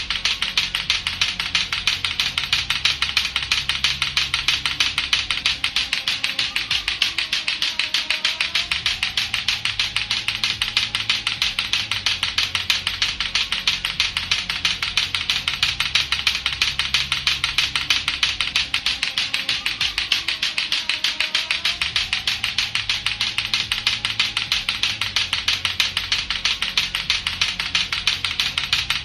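Lato-lato clackers, two plastic balls on a string knocking together in a very rapid, unbroken stream of clacks, over a looping background music track.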